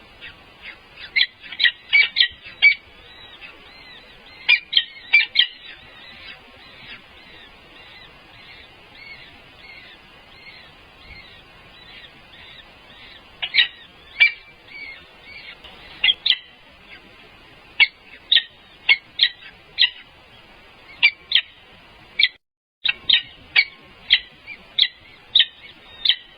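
Birds calling: repeated short, high-pitched chirps coming in clusters of several, over a background of fainter calls. The sound cuts out completely for a moment near the end.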